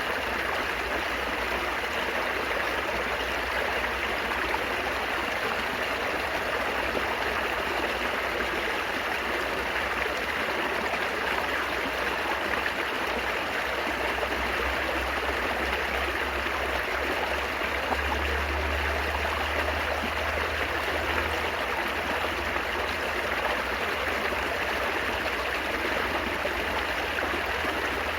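Running water babbling and trickling steadily, like a small stream, with a low rumble underneath that swells for a few seconds past the middle.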